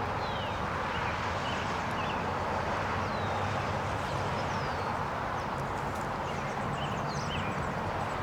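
Small birds chirping now and then over a steady rushing background noise.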